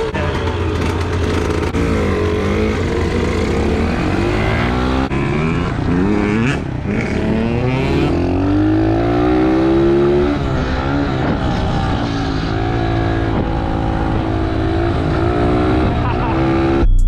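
Two or more small dirt-bike engines being ridden hard. Their pitch climbs through each gear and drops at the shifts, and the tones of the bikes cross one another.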